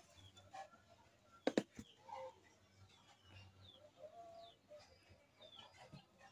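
Faint bird chirps, scattered short calls, with a sharp click about a second and a half in.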